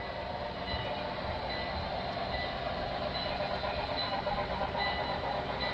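Model Norfolk & Western Y6 locomotive running along the layout track: a steady rolling rumble with a faint thin whine, growing slightly louder as it approaches.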